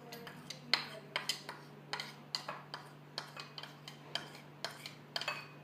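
Cutlery clinking and tapping against a mixing bowl while dry ingredients go in: irregular sharp clicks a few times a second, over a faint steady low hum.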